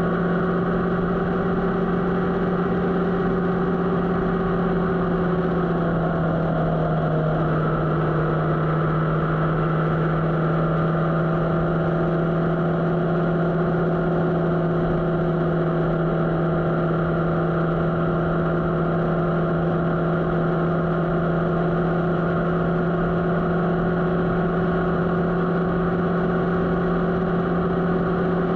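Motorcycle engine running at a steady cruise with an even drone. About six seconds in its pitch dips slightly and holds a little lower.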